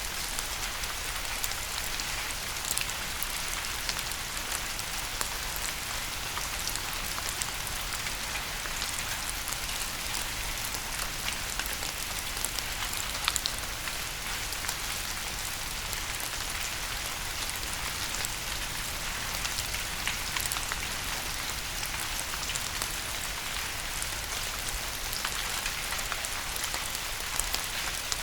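Steady rain falling on a surface, a constant hiss with many separate drops ticking through it.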